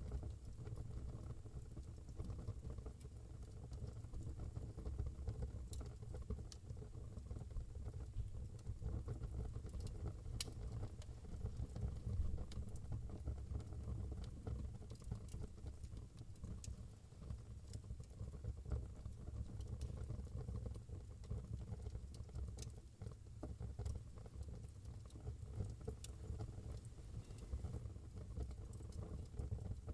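Wood fire burning in a fireplace: a steady low rumble with scattered sharp crackles and pops every few seconds.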